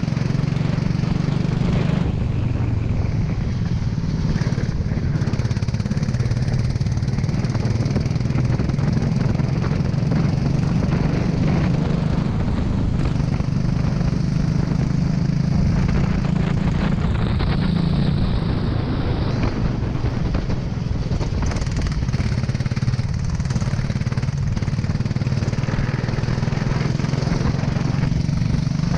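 Go-kart engine running continuously under way, its pitch holding fairly steady with only small changes.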